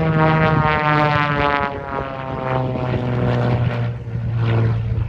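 Beechcraft Bonanza's piston engine and propeller droning through a pass, its pitch dropping about two seconds in as the plane goes by.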